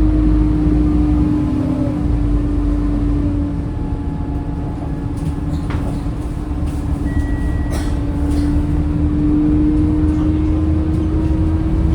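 Scania K230UB Euro V bus running in service, a steady low rumble with a sustained whine from the drivetrain that eases off and builds again. A few light clicks and rattles in the middle.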